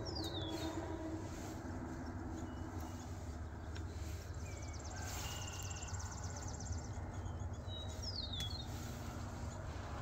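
Wild birds singing: a high whistle slurring downward near the start and again about eight seconds in, a rapid high trill midway, and a few short high notes, over a steady low rumble.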